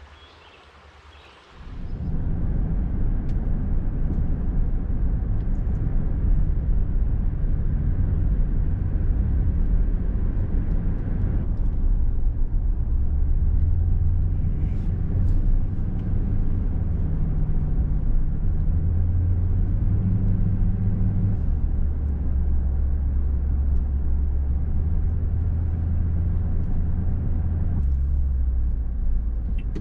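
Car driving: a steady low rumble of engine and road noise that starts abruptly about two seconds in, its low drone shifting in pitch a few times.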